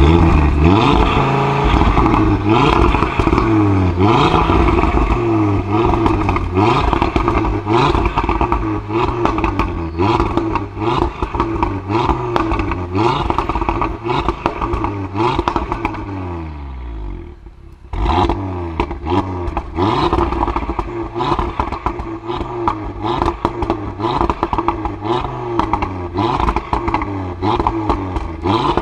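2018 Audi RS3 Sportback's 2.5 TFSI turbocharged five-cylinder engine revved repeatedly while the car stands still, quick blips rising and falling in pitch, with crackling from the exhaust between them. A little past halfway the revving drops away for about a second, then starts again.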